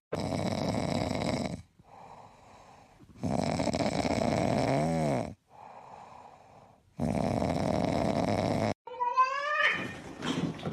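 A sleeping pet snoring: three loud snores, each about a second and a half long and coming every three and a half seconds or so, with much quieter breaths between. Near the end a short rising call breaks in.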